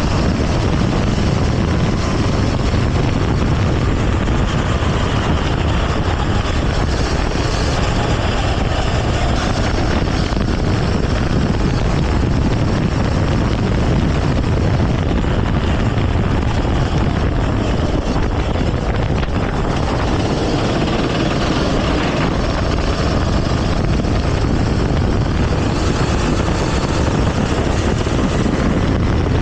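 Go-kart engine running steadily under way on the track, mixed with a dense rush of wind and road noise on the action camera's microphone.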